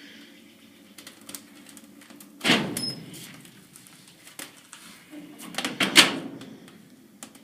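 Wood fire burning in a wood-fired furnace's firebox: a steady low roar as the chimney draft pulls, with scattered sharp crackles. Two louder rushes, about two and a half and six seconds in, each rise suddenly and fade over about a second.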